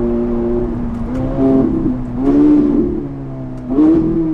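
Straight-piped Ferrari 458 Italia's V8 engine running under way, its note swelling and climbing in pitch three times as the throttle is opened and eased.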